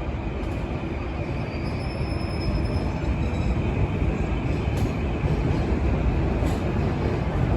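E353 series electric train pulling out, a steady rumble of wheels on rail that grows a little louder about three seconds in as it gathers speed.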